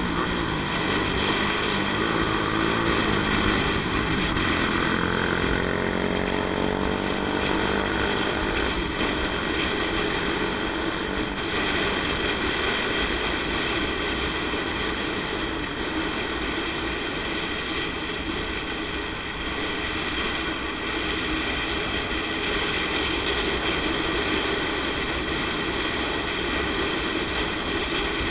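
Motorcycle riding on a road: engine running under steady wind and road noise. About four seconds in, the engine pitch rises for a few seconds as it speeds up.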